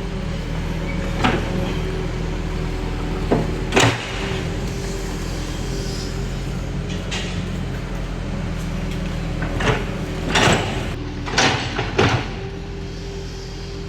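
Bulldozer's diesel engine running steadily, with about seven sharp metallic clanks and screeches, mostly in the second half, from the tracks and blade working.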